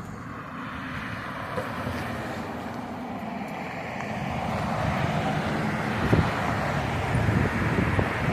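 A road vehicle approaching, its engine and tyre noise swelling over the last few seconds, with gusts of wind buffeting the microphone.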